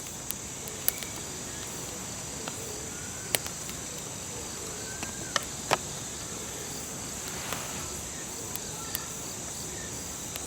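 A steady, high-pitched chorus of insects, with a few sharp clicks and taps scattered through it. The loudest clicks come about three and a half and five and a half seconds in.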